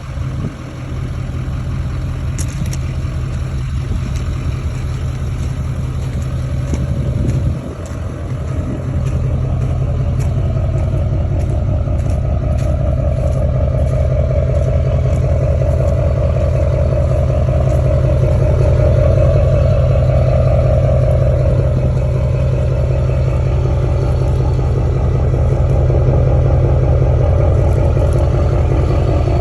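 2013 GMC Sierra Denali HD's tuned, emissions-deleted Duramax diesel V8 running through a 4-inch straight pipe, a loud, steady exhaust rumble. The sound dips briefly about seven and a half seconds in, then picks back up and holds steady, a little louder.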